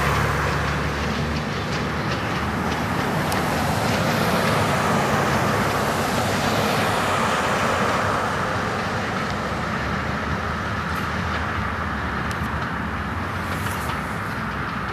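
Railroad cabooses rolling slowly along the track, steel wheels running on the rails with occasional clicks over the rail joints. A low steady hum, likely from the unseen diesel locomotive, fades out about a second and a half in.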